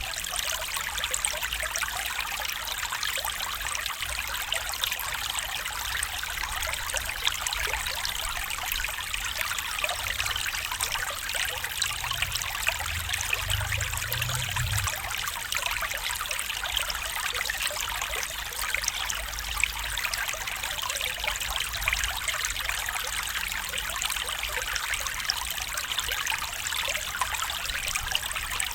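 Shallow stream running and trickling, a steady bubbling hiss with fine splashing detail.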